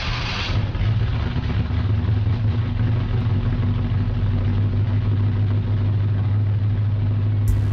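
Engine idling with a steady low hum. A burst of broad noise fades out about half a second in, and sharp clicks start near the end.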